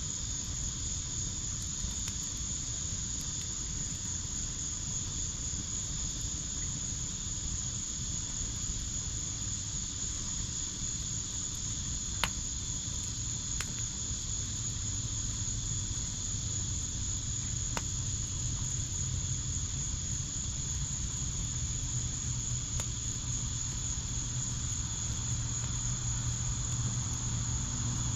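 Crickets trilling steadily in a high, continuous chorus over the low hiss of a wood fire, with three sharp crackles from the burning wood, about twelve, thirteen and a half and eighteen seconds in.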